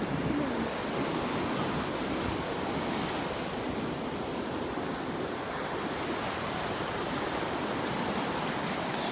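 Ocean surf washing steadily onto the shore: a continuous rushing hiss of waves.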